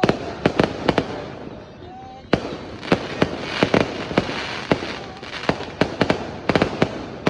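New Year fireworks and firecrackers going off: many sharp bangs in quick, irregular succession over a continuous crackle, with a short lull about two seconds in.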